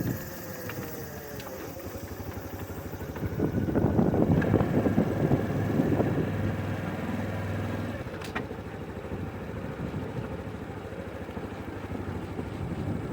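Honda Super Cub 110 (JA59) air-cooled single-cylinder four-stroke engine running. It grows louder for a few seconds about four seconds in, then settles back to a steady run.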